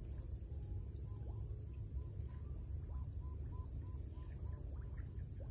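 Birds calling: a quick run of short repeated notes for about two seconds near the middle, and two brief high dipping calls, over a steady low rumble.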